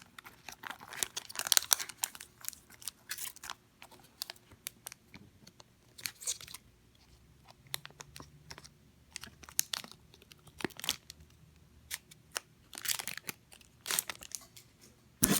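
2003 Pokémon EX Sandstorm foil booster packs being torn open and crinkled by hand. The tearing and rustling comes in irregular bursts with pauses between, and there is a louder sharp snap near the end.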